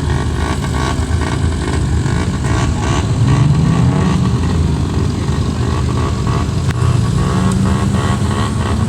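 Car engines running, with one revving up about three seconds in and again near the end.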